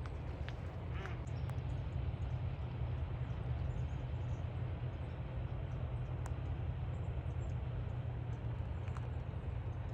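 Outdoor ambience: a steady low rumble, with a few faint, short bird chirps and ticks scattered over it, one of them a brief call about a second in.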